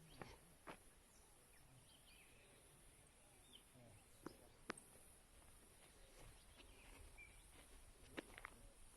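Near silence: faint outdoor ambience with a few scattered small clicks and faint short chirps, no machine running.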